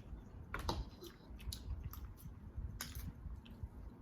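Scattered crisp clicks and crunches of a crunchy snack dish, noodles mixed with hot Cheetos, being eaten and handled, a few sharp ones standing out about half a second in and near three seconds in.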